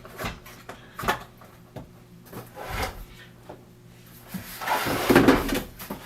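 Handling noise from the coffee maker's plastic and steel body: a few light knocks, then a louder clattering scrape about five seconds in, like a lid or panel being opened.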